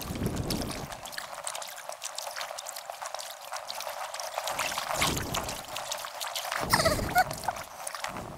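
Kayak paddle dipping and pulling through river water, with splashing and dripping water and a few heavier surges of splash, sped up in time-lapse.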